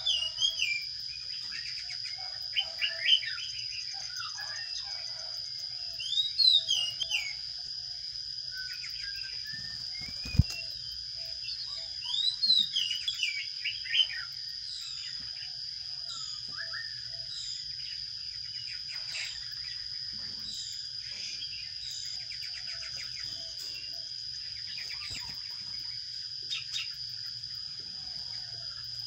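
Sparrows chirping in several short flurries of quick, high, falling chirps, fainter toward the end, over a steady high whine. There is a single sharp click about ten seconds in.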